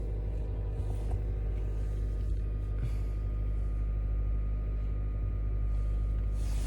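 Steady low rumble and hum of a car engine running, heard from inside the car.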